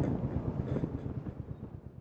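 Royal Enfield Hunter 350's single-cylinder engine running with a low, even thud of firing pulses, fading out gradually.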